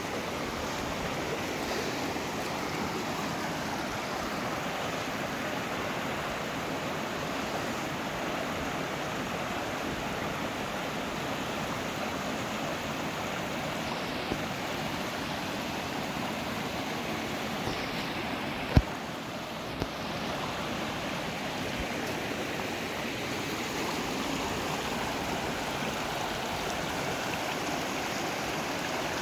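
Steady rushing of flowing water, with one sharp click or knock about two-thirds of the way through.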